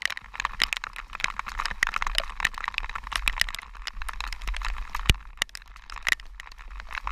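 Raindrops striking a GoPro camera in heavy rain: a dense, irregular run of sharp ticks, over a low wind rumble on the microphone.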